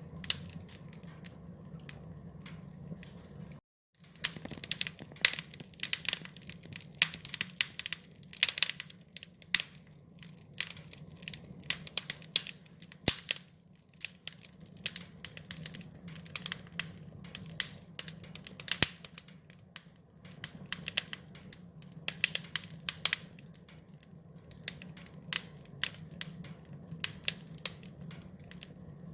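Wood fire crackling, with irregular sharp snaps and pops of varying loudness over a steady low rumble. The sound cuts out completely for a moment about four seconds in.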